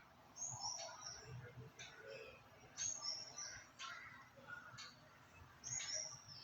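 Faint bird chirps: three short, high, slightly falling calls a few seconds apart, with a few soft ticks between them.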